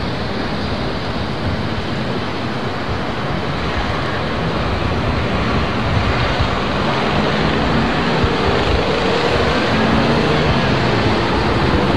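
A steady rush of noise with the hum of car engines on the wet race track, growing louder in the second half.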